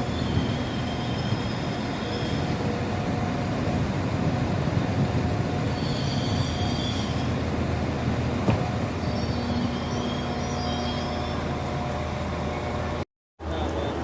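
A train running at a station platform: a steady rumble of engine and wheels, with thin high-pitched squeals coming and going three times.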